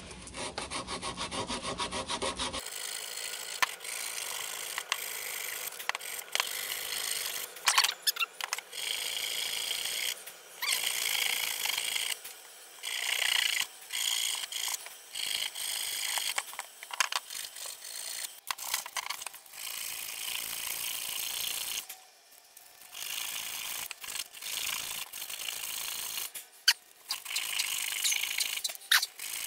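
Sandpaper rubbing against wood as a turned wooden goblet is sanded: a scratchy rasping that comes in runs broken by short pauses, with a longer break about 22 seconds in.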